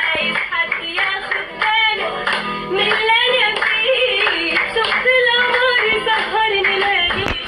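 A female voice singing an ornamented, gliding Arabic melody over music with a steady beat.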